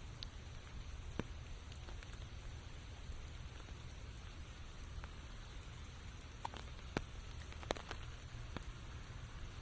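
Rain falling in a forest: a steady patter, with a few single heavy drops striking close by, the sharpest about seven and eight seconds in.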